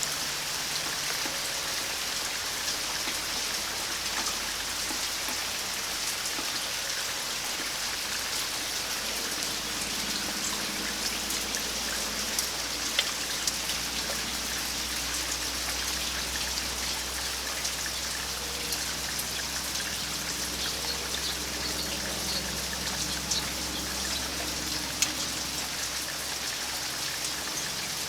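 Steady rain falling, an even hiss with scattered individual drops ticking close by, a few of them louder.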